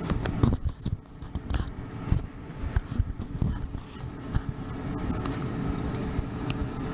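Steady low rumble of a suburban electric train running, heard from inside the carriage, with a run of irregular knocks and clicks over the first few seconds before it evens out.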